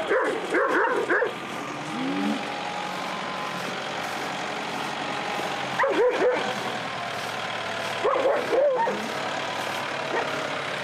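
Dogs barking in several short bouts over an engine running steadily in the background.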